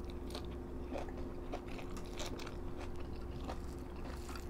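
People eating close to the microphone: chewing and crunching food, with short clicks scattered irregularly through the chewing.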